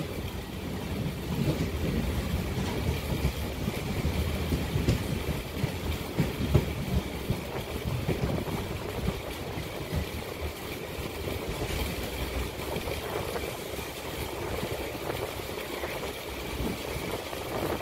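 MEMU electric train running on the track, heard from on board: a steady rumble of wheels on rail with uneven low knocks, heavier in the first half and easing after about ten seconds.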